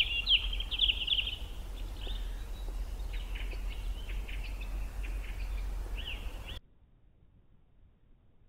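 Small birds chirping with quick, repeated notes over a steady low rumble. It cuts off suddenly about six and a half seconds in, leaving near silence.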